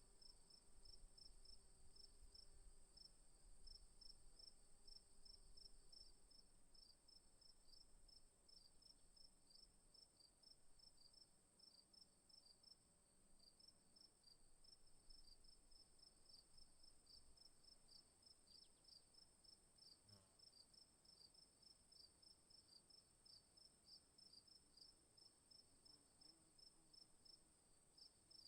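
Faint insects chirping: evenly repeated high chirps, about two to three a second, over a steady high drone.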